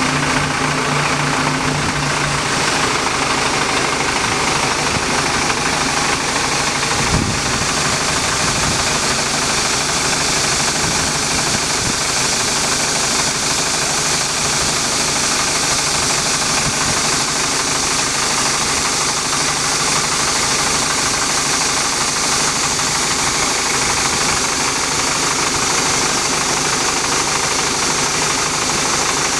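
The engine of a tractor-driven auger and pile-driving rig running steadily, with a single knock about seven seconds in.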